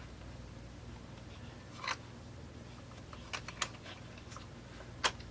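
Light clicks and taps of small plastic and metal chainsaw throttle-linkage parts being handled and fitted: one about two seconds in, a quick cluster of three around three and a half seconds, and a sharper one near the end.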